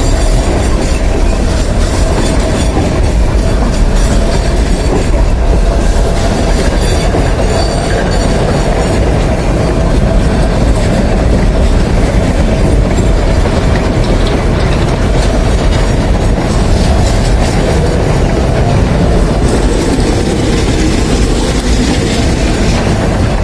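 Limestone freight train rolling past, its wagons' wheels running steadily and clattering over the rails, loud and unbroken throughout.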